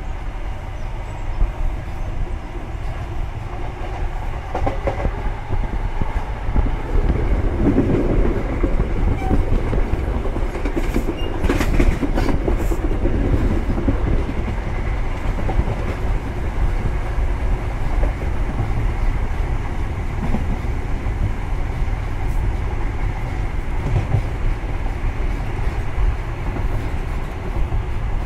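Grand Central HST (InterCity 125) train running at speed, heard at a coach's door window: a steady low rumble of wheels on rail with a rush of air, growing louder a few seconds in. A few sharp clicks from the wheels on the track come about twelve seconds in.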